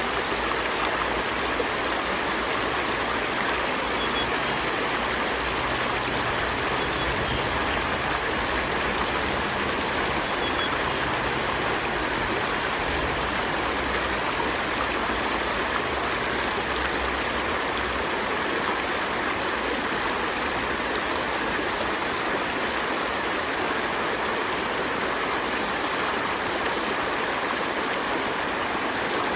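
A river stream flowing: a steady, even rush of water with no breaks.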